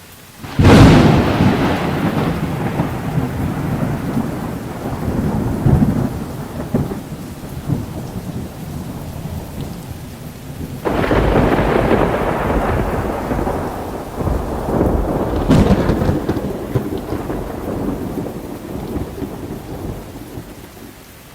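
Thunderstorm: a sudden clap of thunder about half a second in rumbles and slowly fades over several seconds. A second clap comes about eleven seconds in, and a sharp crack a few seconds after that, over steady rain.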